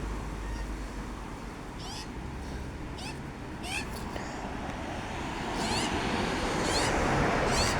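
Birds calling, a series of short high calls repeated every second or so over a steady low background rumble.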